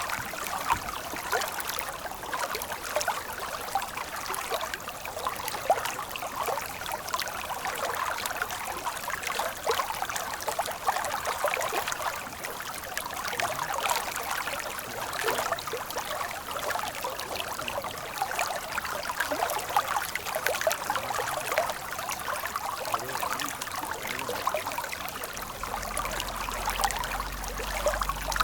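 Water flowing in a stream, a steady babble of many small splashes and trickles. A faint low rumble comes in near the end.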